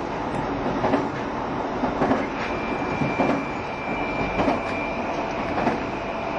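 JR Shikoku 7200 series electric train running: a steady rumble with rail-joint clacks about once a second. A thin, steady high whine comes in about two and a half seconds in.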